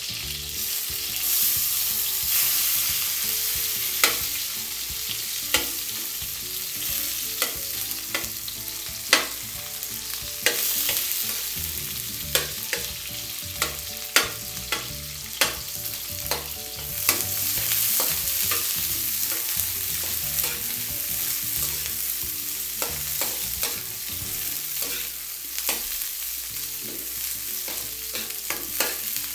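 Sliced onions sizzling in hot oil in a wok while being sautéed, with a metal ladle scraping and clinking against the pan as they are stirred. The clinks come often and irregularly.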